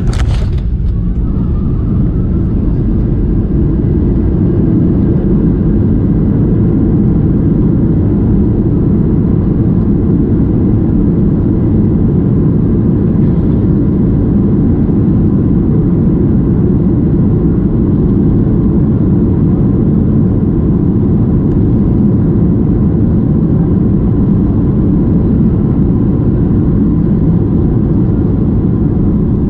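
Steady rumble of a Boeing 737-800's engines and airflow heard inside the cabin. A brief knock comes at the very start.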